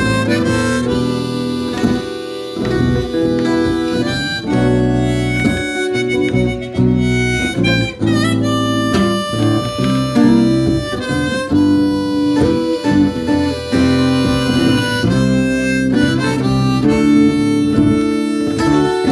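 Blues harmonica playing sustained notes, some bent in pitch, with acoustic guitar accompaniment.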